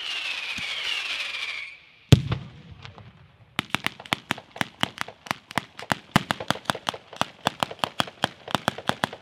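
Firework fountains hissing with falling whistles, cut off by one very loud bang about two seconds in. From about three and a half seconds a ground-level firecracker batteria sets off a rapid string of sharp bangs, several a second.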